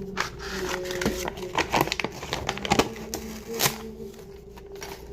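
Food-preparation handling noises: irregular sharp clicks and knocks mixed with crinkling, the loudest knocks in the middle of the stretch, over a steady low hum.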